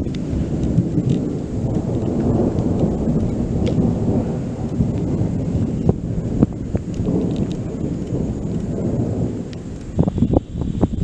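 Rolling thunder: a deep, continuous rumble lasting about ten seconds that thins out near the end.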